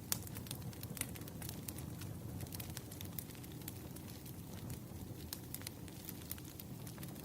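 Wood fire crackling: irregular sharp pops and snaps over a low, steady rumble of burning logs, with the loudest pop just after the start.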